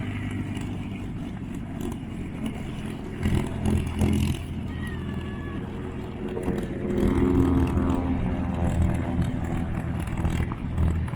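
Engine running steadily. About seven seconds in, it passes by with its pitch falling.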